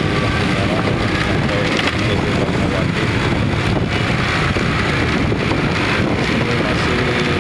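Steady traffic noise on a busy city road, motorbikes and cars running, with wind buffeting the microphone.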